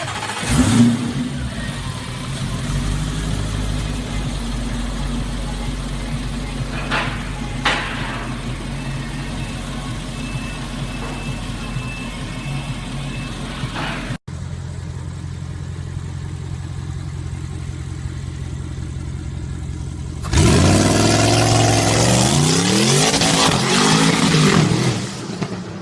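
Modified Audi car engine idling steadily, then revved hard several times about twenty seconds in, the pitch climbing and falling and much louder than the idle.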